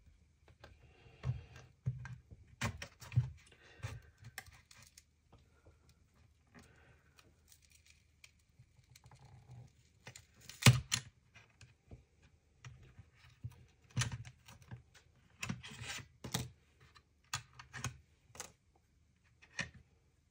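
Irregular light clicks and taps of a small plastic device and tools being handled during a repair, with the sharpest knock about halfway through.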